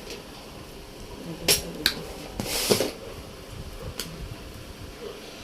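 Small parts and tools being handled on a workbench: a few sharp clicks and a brief scraping rattle of small hardware about two and a half seconds in.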